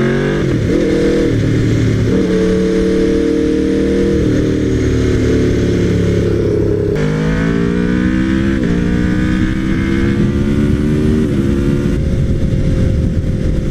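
Aprilia RSV4R V4 engine through a GPR Thunder Slash aftermarket exhaust, accelerating through the gears: the pitch climbs and then drops sharply at each of several upshifts, and the engine settles to a steady pitch near the end.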